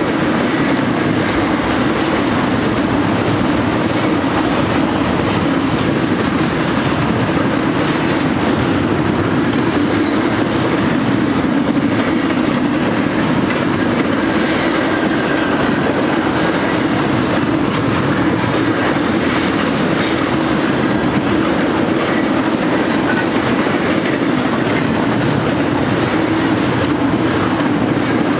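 BNSF double-stack intermodal freight train's loaded container well cars rolling past at speed: a loud, steady rumble of steel wheels on rail.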